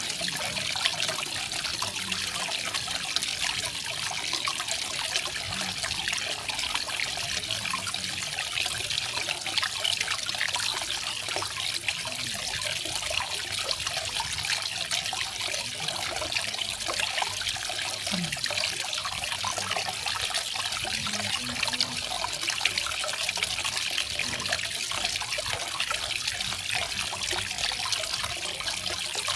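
Small garden waterfall: water falling and splashing in a steady, unbroken hiss, with faint trickling and gurgling beneath.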